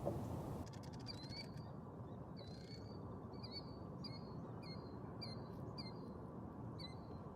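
A wild bird calling: a series of about nine short, high call notes, each with a quick hooked inflection, roughly one every half second, over a faint steady outdoor hiss.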